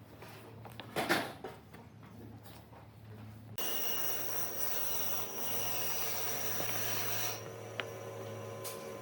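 Wood knocked and handled, then about three and a half seconds in an electric power tool switches on and runs steadily with a high whine. The whine drops away about seven seconds in while the tool keeps running, as it works on wood.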